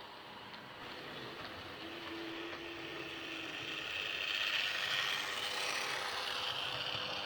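OO gauge model locomotive running along the track, its motor and wheels making a steady rushing noise with faint clicks, growing louder as it comes closer and peaking about two-thirds of the way through.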